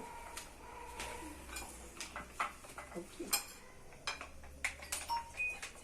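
A spoon clinking and scraping against a dish in a string of irregular sharp knocks, a few ringing briefly, as tomato sauce is spooned in.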